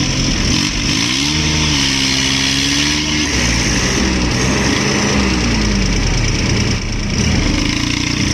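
Tractor diesel engine revving: its pitch climbs about a second in, holds high, drops back after about three seconds, and climbs again near the end.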